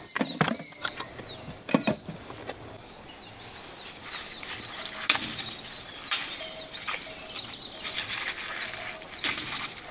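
Small birds chirping over and over in short, falling high notes. Two knocks come about half a second and two seconds in as a metal basin is set down on a wooden table. From about four seconds in there is a crackly rustling of papery garlic bulbs being pulled from a braid.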